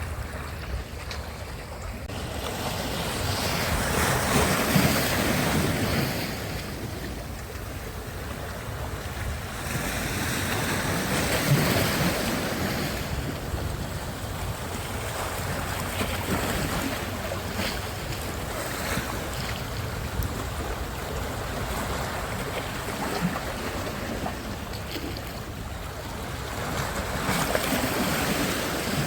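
Sea surf washing onto a beach, the rush of noise swelling and falling as waves break, with a few louder surges. Wind buffets the microphone with a steady low rumble.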